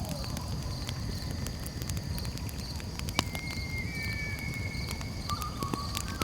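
Wood campfire crackling with frequent sharp pops over a low rumble, with a steady high insect trill behind it. A thin whistling tone comes in about three seconds in and continues at a lower pitch near the end.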